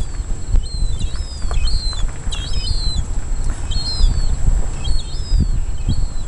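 Seagulls calling: a run of short, high, down-slurred cries, about two a second, over a steady low rumble.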